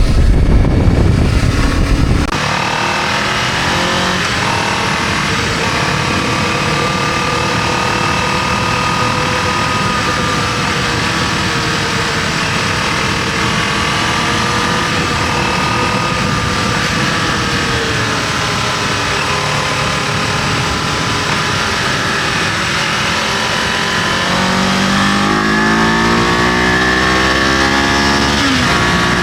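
Kawasaki KLE500 motorcycle engine running on the move with wind rush. Heavy wind buffeting covers the first two seconds, then the engine note holds fairly steady, rising and falling gently. Near the end the revs climb steadily, then drop suddenly.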